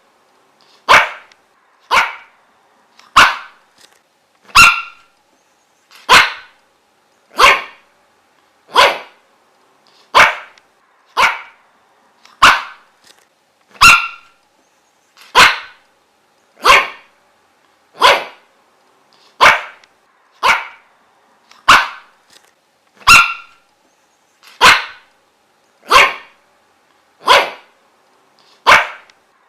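A dog barking over and over in single, evenly spaced barks, about three every four seconds.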